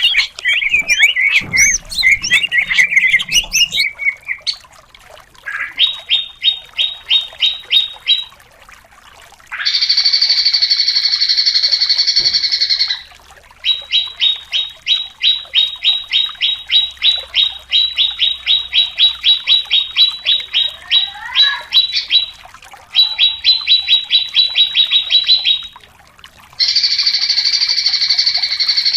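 Cucak cungkok singing: a varied warble, then long runs of rapid, sharply repeated high notes, alternating with stretches of a continuous high buzzing trill.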